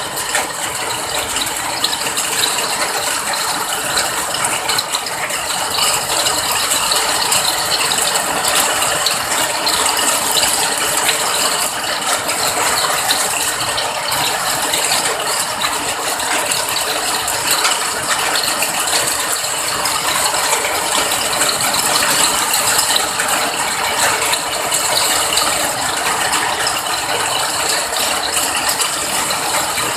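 Rain falling steadily: a dense, even patter of countless small drops.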